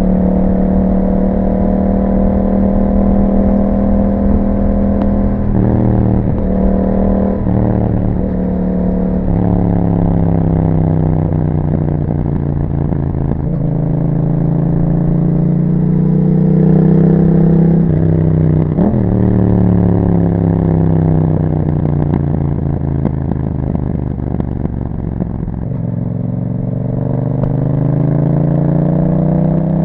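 Yamaha MT-07 parallel-twin engine through an Akrapovic exhaust, riding under way. The engine note rises and falls as the bike accelerates and rolls off, with a quick run of gear changes around six to nine seconds in and a sharp blip of revs near nineteen seconds.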